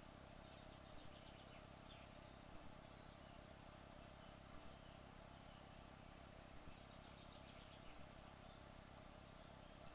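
Near silence: room tone with a faint steady hum and soft double clicks every couple of seconds.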